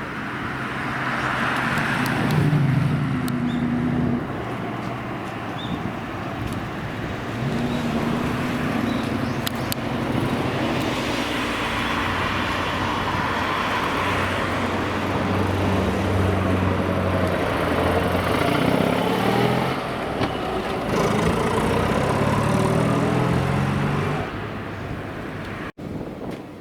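Car engines revving and accelerating in several separate runs, the pitch rising and falling each time, over steady road and traffic noise.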